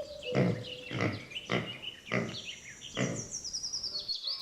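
Piglets grunting and squealing in about five short, separate calls. A thin, high chirping runs behind them in the second half, falling slightly in pitch.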